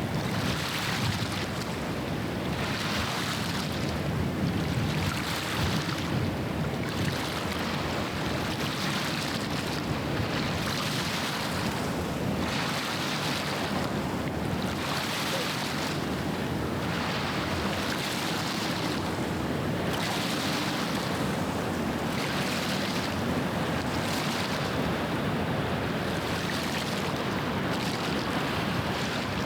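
Small waves washing onto the shore, one surge about every two seconds, over a steady low rumble.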